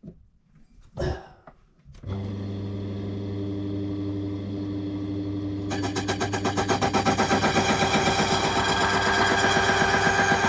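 Key-cutting machine switched on about two seconds in, its motor humming steadily. A few seconds later the cutter bites into a lever-lock key blank, a louder, rapid, even chatter over the motor that stops near the end.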